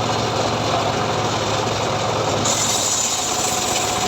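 Engine-driven, home-built srekel sawmill running steadily. About two and a half seconds in, its sound turns brighter with a higher hiss, and a steady mid-pitched tone joins it.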